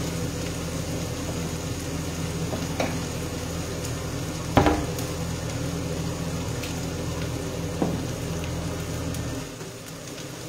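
Shrimp heads and shells sizzling in a steel saucepan over a gas burner, a steady frying hiss. A steady low hum runs under it and stops near the end, and there is one sharp knock about four and a half seconds in.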